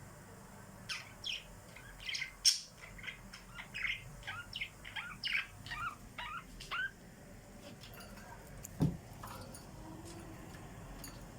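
Small pet birds chirping in a quick run of short, high notes for about six seconds, then a single low thump.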